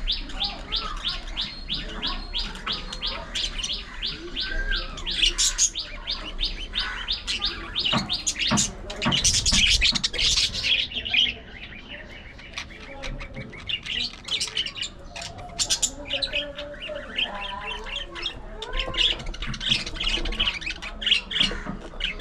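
A flock of budgerigars chattering and chirping. One bird gives a rapid run of short repeated chirps, about four a second, for the first few seconds. Loud harsh squawks come around the middle, then warbling chatter.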